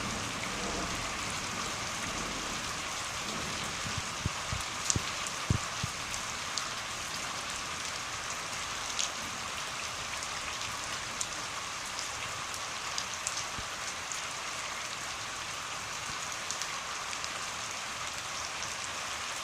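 Steady rainfall: an even hiss of rain with scattered louder drips and taps, a cluster of sharper knocks about four to six seconds in.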